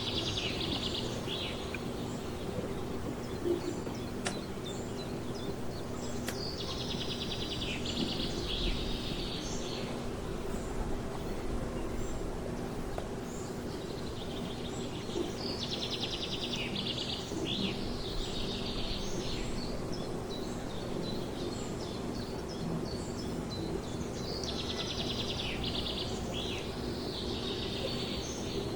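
A songbird singing short, fast-trilled phrases of two to four seconds, repeated four times about every eight to ten seconds, over a steady outdoor background noise with a low hum.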